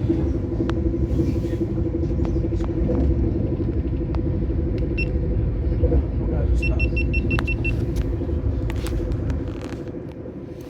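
Steady rumble and hum of a passenger train running, heard from inside the carriage. A quick run of about six short high beeps comes about seven seconds in, and the rumble eases near the end.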